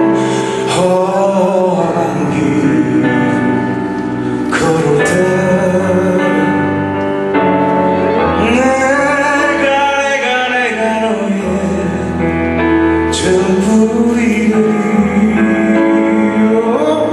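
Live band playing a slow ballad while a male singer sings over it, holding long notes with a wavering vibrato.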